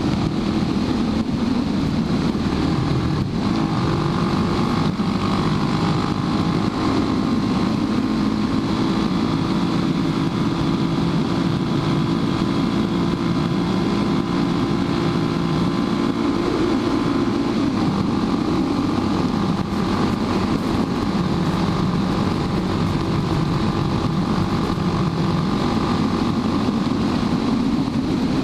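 Suzuki DR650 supermoto's single-cylinder engine running at a steady cruise while riding, with wind buffeting the helmet camera's microphone.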